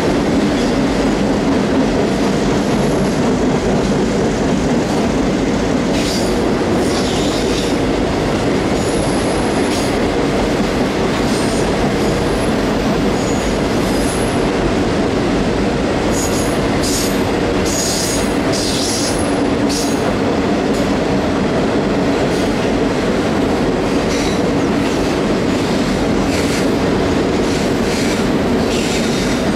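Double-stack intermodal container cars rolling across a steel railroad trestle: a steady, loud rumble of wheels on rail and bridge. Brief high-pitched wheel squeals come through now and then, around a quarter of the way in and again past the middle.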